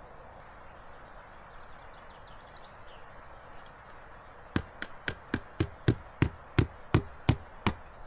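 A hammer striking about eleven quick, sharp blows in a steady rhythm, starting about halfway through.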